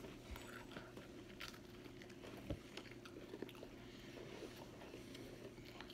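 Faint chewing and small crunches of people eating Oreo cookies, over a low steady hum.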